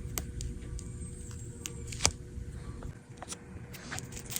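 Scattered light clicks and taps of small repair tools working an iPad's home button off its old screen, the sharpest about two seconds in.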